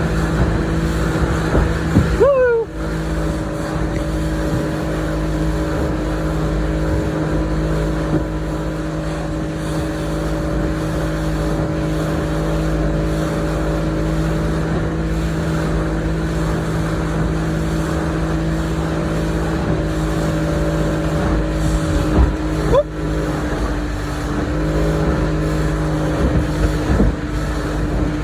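Boat motor running steadily under way, a constant engine drone over wind and water rush. A brief sliding tone sounds about two seconds in and again about three-quarters of the way through.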